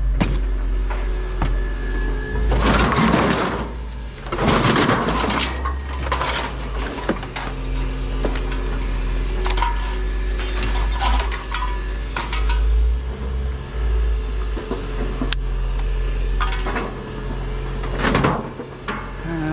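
Hard plastic items and cables clattering and rustling as a heap of discarded electronics is rummaged through by hand, with many short knocks and a few longer bouts of shuffling, over a steady low hum.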